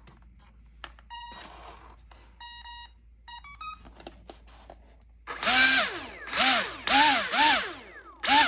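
Electric RC airplane's speed controller beeping as the battery is connected: two steady beeps, then a quick run of short tones. It is followed by five short, loud whirring bursts whose pitch rises and falls, as the plane's electronics are driven.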